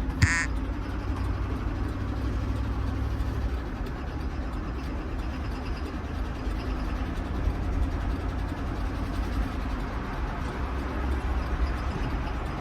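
GMC Yukon XL's 5.3-litre V8 running steadily under way, with a connecting-rod knock. A short high chirp with a thud comes just after the start.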